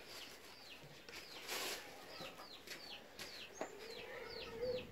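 Small birds calling: a steady run of short, falling chirps, a few a second, joined a little before the end by a longer wavering call, with a brief noisy rustle about one and a half seconds in.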